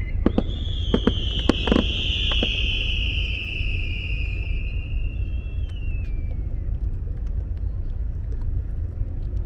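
Fireworks: a long high whistle from a whistling shell that slides down in pitch and fades about six seconds in, with a few sharp cracks in the first two seconds, over a steady low rumble.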